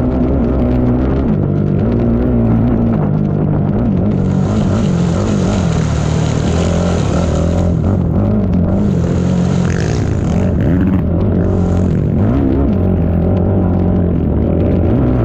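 ATV engine running hard, its pitch rising and falling as the throttle is worked, with several bursts of hiss over it.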